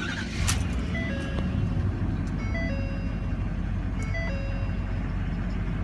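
Ford pickup truck's engine catching shortly after the start and then idling steadily. Over it, a short electronic tone pattern repeats about every one and a half seconds.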